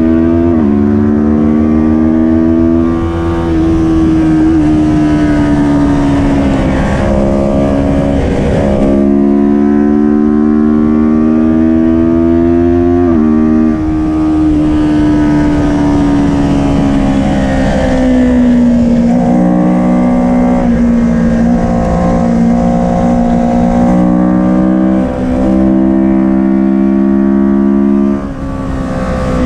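Kawasaki Ninja 400 parallel-twin engine running hard at racing revs. Its pitch climbs and falls with several sudden steps as gears are changed.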